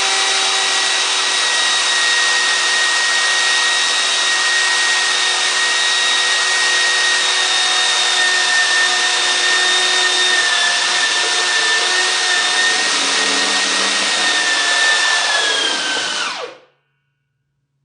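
A handheld power tool's electric motor runs at high speed with a steady whine, spinning a workpiece for friction welding. Its pitch sags slightly under load near the end, then the sound cuts off suddenly.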